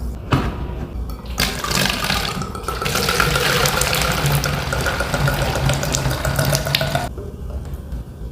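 A running-tap sound: a steady rush of water like a faucet filling a sink, with a few faint steady tones in it. It starts about a second and a half in and cuts off suddenly near the end.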